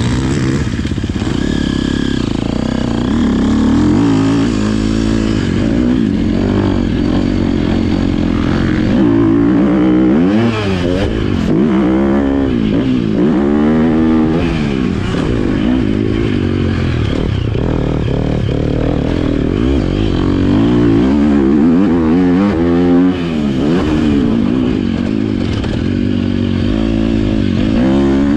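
Motocross bike engine being ridden hard, its pitch repeatedly rising and falling as the rider works the throttle and gears.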